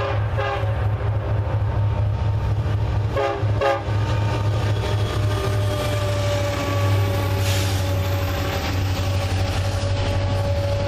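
Union Pacific diesel locomotives leading a double-stack intermodal train sound short blasts of their multi-chime horn at the start and again about three seconds in, then pass close by with a deep engine rumble. The locomotives give way to double-stack container cars rolling past with rail clatter and a steady thin whine.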